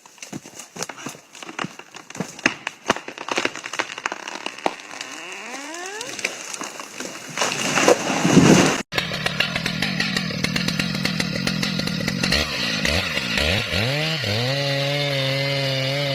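A quick run of sharp knocks, typical of hammer blows on felling wedges, builds into a loud swell that cuts off abruptly. A two-stroke chainsaw then runs, its engine pitch wavering up and down as it is throttled.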